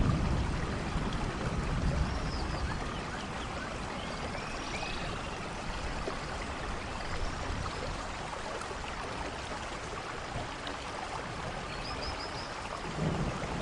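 Steady rain falling, an even hiss of water, with a few faint high chirps here and there. A low thunder rumble fades away at the start, and another begins swelling just before the end.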